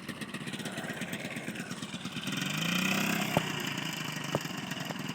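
Dirt bike engine running cold while it warms up, idling with a steady pulse, briefly revved up about two and a half seconds in and then settling back to idle. A couple of sharp clicks come near the end.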